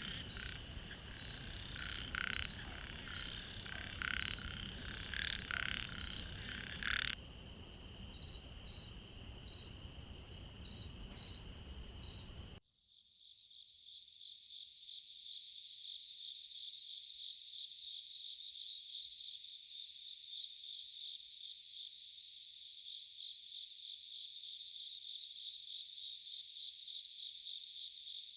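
Frogs calling in a chorus of repeated short croaks and chirps. About halfway through it cuts off suddenly and gives way to a dense, steady chorus of trilling insects such as crickets.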